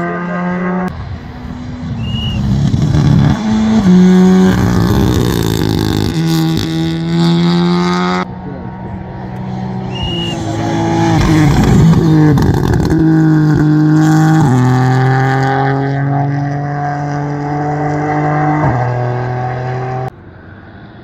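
Rally car engines at full throttle, revving hard with quick gear changes so the pitch climbs and drops in steps, with bursts of crackling on the overrun. The sound cuts off suddenly about eight seconds in and again near the end.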